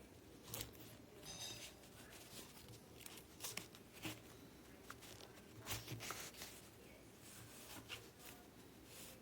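Faint handling noises: scattered light rustles and clicks, about a dozen spread irregularly through the stretch, over quiet room tone.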